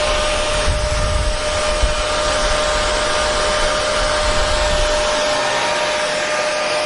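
Electric hair dryer running steadily: an even rushing blow of air with a thin, steady whine from the motor. A low rumble beneath it fades out about five seconds in.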